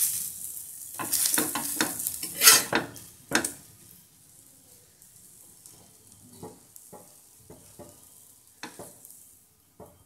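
Bread omelette sizzling on a hot dosa tawa while a metal spatula scrapes and taps on the pan as the omelette is folded and lifted off. The sizzle and scraping are loudest in the first three or four seconds, then die down to a few faint taps.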